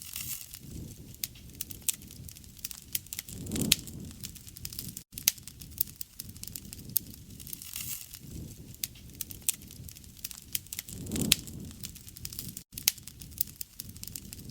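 Wood fire burning, crackling with frequent sharp pops and snaps over a low rush of flame. The rush swells twice, about three and a half seconds in and again near eleven seconds, and the sound cuts out for an instant twice.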